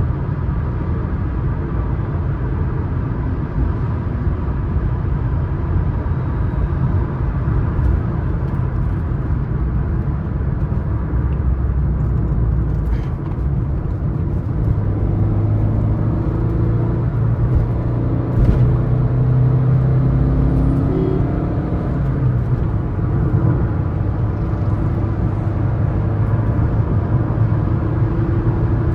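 Suzuki S-Cross 1.3 DDiS four-cylinder turbodiesel and its tyres cruising at highway speed: a steady low engine hum with road noise. The engine note grows stronger from about halfway through.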